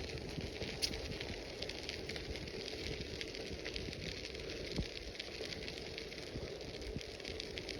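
Bicycle tyres rolling over a crushed-stone trail surface: a steady crackling hiss with a couple of sharper ticks.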